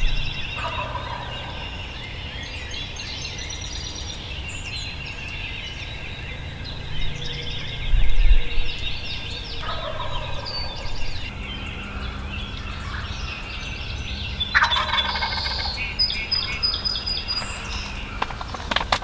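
Wild turkey gobbling three times, each a short rattling burst, with small birds chirping throughout. One low thump about eight seconds in is the loudest thing.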